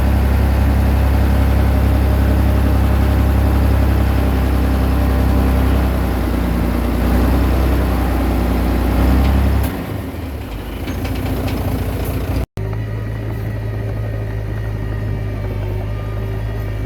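Diesel engine of a Komatsu D20P bulldozer running steadily with a strong low hum. About ten seconds in it drops sharply in level. After a brief dropout a quieter, steady engine sound carries on.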